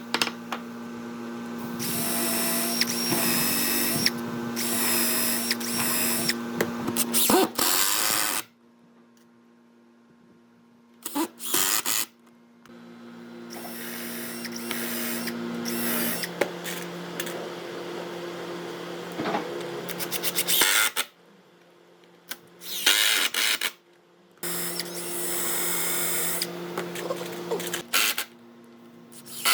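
An electric power tool with a drill-like motor hum, worked on wood in several spells of a few seconds each, with short pauses between them when it stops or idles.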